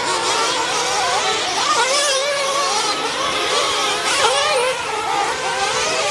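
Several small gas-powered RC off-road truck engines racing at once, their high whines rising and falling as the drivers work the throttle.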